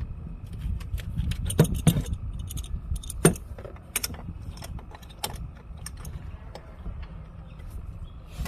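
Metal hand tools clinking and knocking: an adjustable wrench being handled and fitted onto a van's oil filter. The sharpest knocks come at about one and a half to two seconds in and again at three to four seconds, over a steady low rumble.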